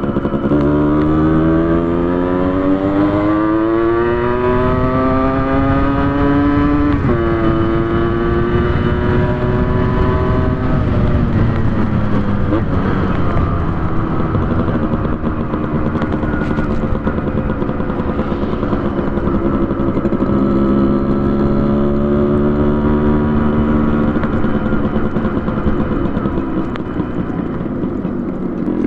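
Yamaha RX100's two-stroke single-cylinder engine with a custom expansion-chamber exhaust, pulling under acceleration: the pitch climbs for about seven seconds, drops sharply at a gear change, climbs again, then settles lower and rises once more past twenty seconds.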